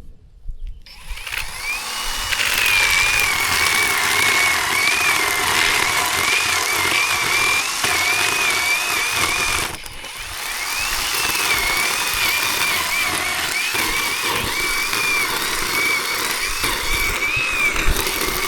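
Zhipu 48V cordless electric chainsaw running, a high motor whine over chain noise whose pitch wavers up and down. It starts about a second in, stops briefly about halfway, and starts again.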